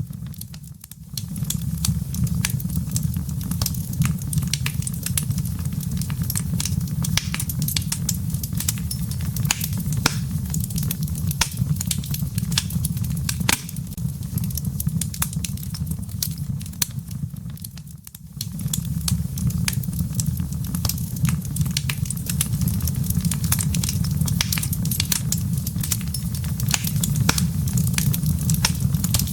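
Wood fire in a fireplace, its embers crackling in dense irregular snaps over a steady low rumble; the sound briefly drops away twice.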